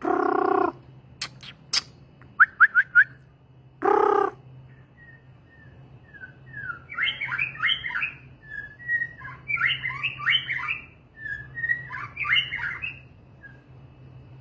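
A songbird calling and singing: a short loud call at the start and another about four seconds in, a quick run of four rising chirps between them, then three bursts of varied, chattering song notes from about seven seconds on.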